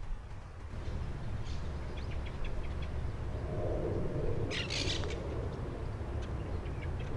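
Birds calling over a steady low rumble: scattered short high chirps, a low hooting call for a couple of seconds past the middle, and a brief dense burst of high chirping in the middle.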